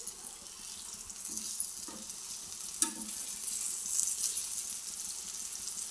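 Gram-flour-coated eggplant slices sizzling in shallow oil on a flat tava, with a few clicks of a metal spatula on the pan as the slices are turned; the sharpest click is about three seconds in.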